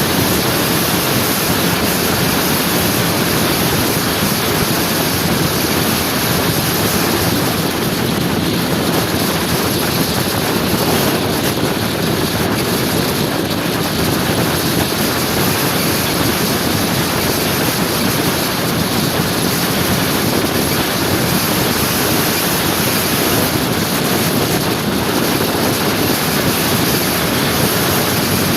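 Steady rush of wind noise on the microphone with road and engine noise from a motor scooter on the move, unbroken and even throughout.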